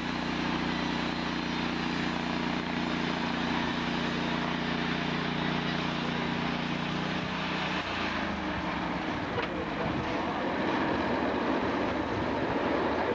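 Sawmill engine running steadily. About eight seconds in its note drops as if under load and a louder rough, rushing noise builds, consistent with the saw blade cutting into the log.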